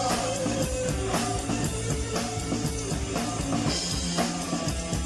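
Live rock band playing an instrumental passage between sung lines: drum kit keeping a steady beat under electric guitar and bass.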